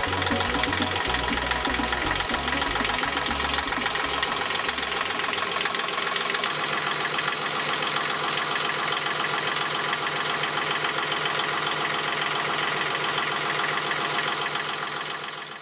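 Yanmar 3GM30F three-cylinder marine diesel running steadily at idle, the sound fading out near the end.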